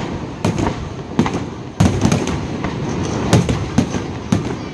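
Fireworks display: a rapid, irregular series of sharp aerial shell bursts and bangs, about a dozen in a few seconds, the loudest about two seconds in and again past the middle, over a continuous rumble of crackling and echo.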